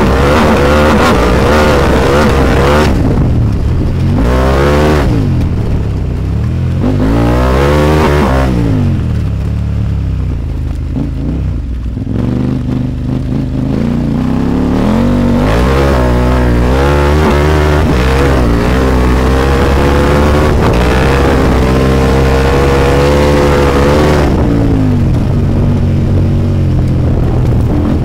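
KTM 890 Adventure R's parallel-twin engine under hard throttle, its pitch rising and falling again and again as the rider accelerates and backs off, with a quieter, lower stretch about ten to thirteen seconds in.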